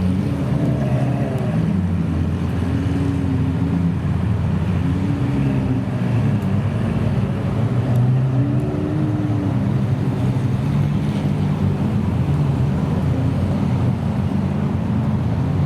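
Several supercar engines running at low revs together. Their pitch swells and falls back a few times.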